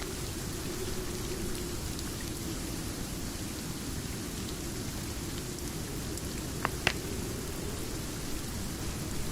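Steady rain with a low, even rush, and a few scattered ticks on top. The loudest are two sharp clicks close together about seven seconds in.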